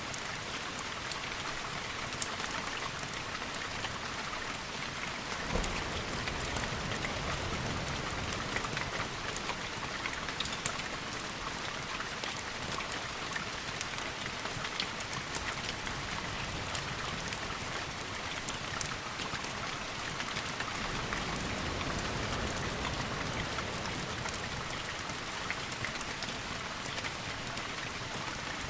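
Steady heavy rain, full of small sharp ticks, in a layered storm ambience. A low rumble swells a few seconds in and again about two-thirds of the way through. One sharp crack comes about five and a half seconds in.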